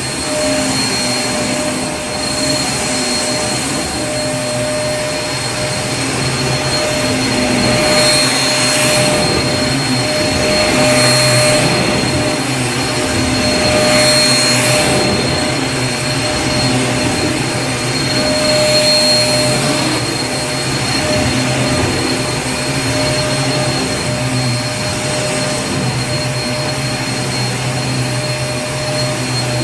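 Vacuum cleaner running steadily: a motor hum and whine with a high tone over airflow hiss. The hiss swells and fades every few seconds.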